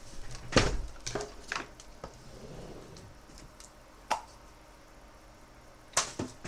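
Small objects handled on a workbench: a few separate sharp clicks and knocks, the loudest about half a second in.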